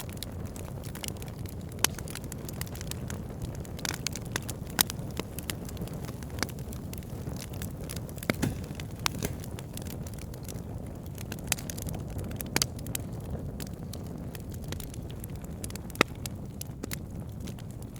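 Wood fire burning: a steady low rush from the flames with frequent sharp crackles and pops from the logs, a few louder pops standing out.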